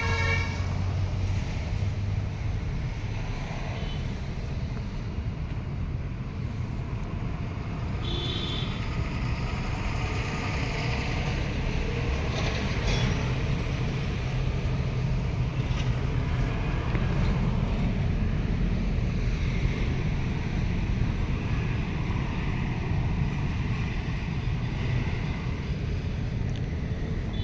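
A vehicle engine running steadily with a low rumble, amid road noise. A short high tone sounds briefly about 8 seconds in.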